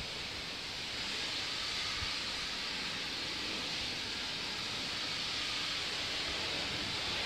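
Sandblasting: compressed air driving abrasive sand out of a blast nozzle, a steady harsh hiss that swells slightly about a second in.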